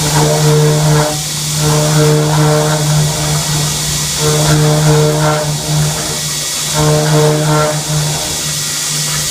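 CNC mill machining an aluminum bracket: a steady machine hum and hiss, with a pitched cutting tone that comes and goes four times, each pass lasting about a second.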